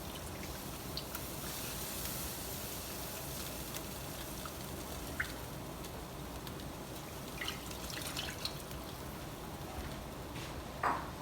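Milk-and-flour sauce cooking in a pan, with a faint steady bubbling and a few small clicks.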